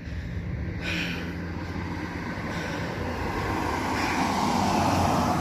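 A motor vehicle passing on a road: its engine and tyre noise swells steadily, loudest near the end.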